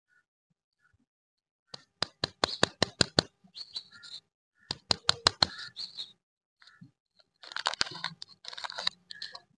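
Crisp clicks and crackles of plastic packaging being handled and unwrapped, coming in irregular clusters after a quiet first second and a half.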